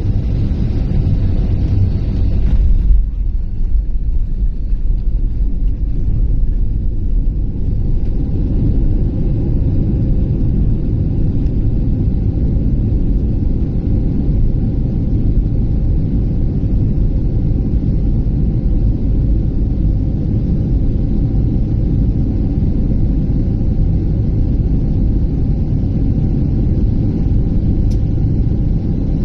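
Airliner cabin noise: a loud, steady low rumble of engines and airflow. About three seconds in there is a brief peak, after which the higher part of the noise drops away.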